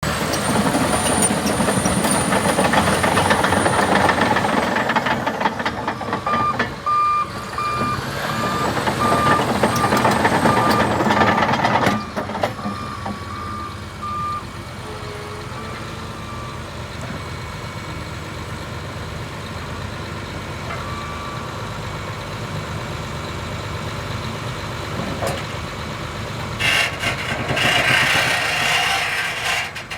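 Cat D6T LGP crawler dozer's diesel engine running loud under load, with its backup alarm beeping steadily for several seconds as it reverses. The engine then drops to a quieter steady run, with a louder burst of noise near the end.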